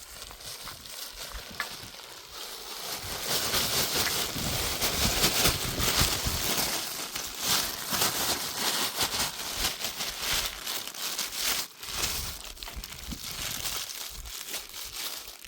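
Dense rustling and crackling, like things being handled or pushed through, with many small crackles. It swells about three seconds in and eases off near the end.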